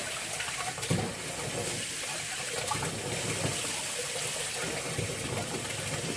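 Cold tap running, water pouring steadily into a partly filled sink to cool the bath water. A small knock about a second in.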